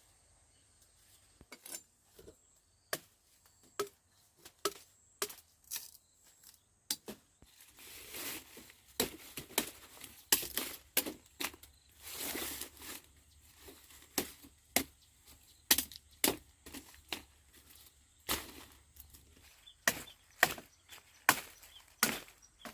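A blade chopping sugarcane stalks: sharp, irregular strikes, about one or two a second, with a few longer rustling stretches between them.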